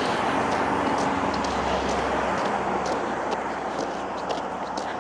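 A vehicle passing on the road, its tyre and engine noise fading as it moves away, with small sharp ticks of footsteps over it.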